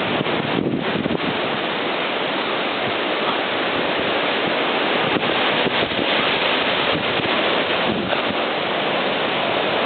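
Typhoon wind blowing hard and steadily, a loud even rushing that buffets the microphone.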